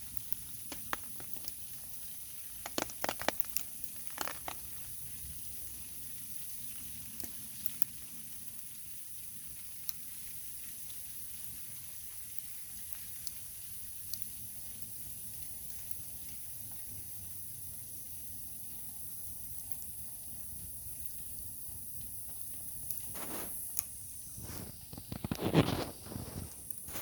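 Steady rain hiss with sparse sharp crackles and pops from wood burning in a small wood stove. Near the end comes a short cluster of louder knocks and clatter.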